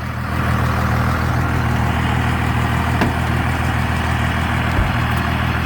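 5.9 Cummins straight-six diesel idling steadily through a 5-inch straight-pipe exhaust.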